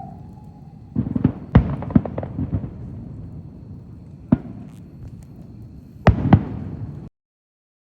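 Fireworks going off: sharp bangs, each followed by a rolling rumble. There is a cluster of three in the first two seconds, a single bang a little past the middle and a double bang near the end, after which the sound cuts off abruptly.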